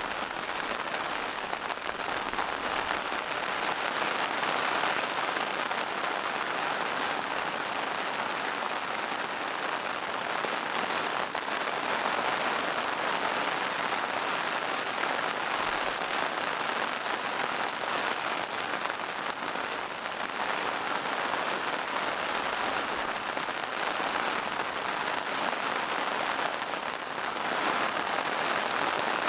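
Steady rain falling in a forest, a continuous patter of drops on leaves and mossy rocks.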